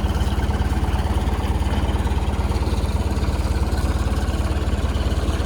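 Sailboat's inboard engine idling with a steady, even low pulse, just after starting up.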